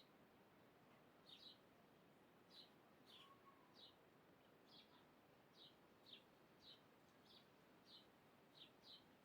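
Faint, repeated short high chirps from a bird, each note dropping in pitch, coming irregularly about once or twice a second over a low steady hiss.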